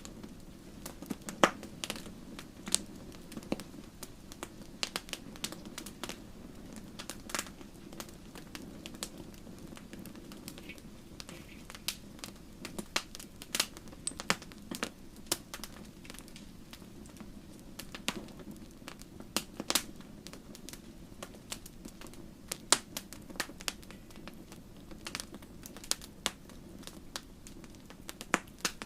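Wood fire crackling in a fireplace: irregular sharp pops and snaps, a few much louder than the rest, over a steady low background.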